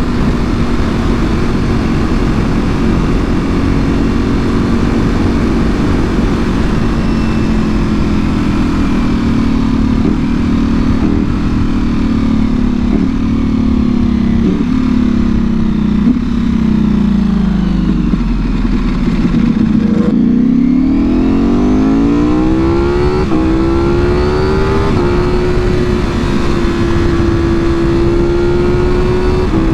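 Ducati Panigale V4R's V4 engine through a full Akrapovic exhaust while riding: steady cruising at first, then engine speed winds down with several quick rev-blips on downshifts. About two-thirds of the way in it pulls hard, rising in pitch through two upshifts, then settles to a steady cruise.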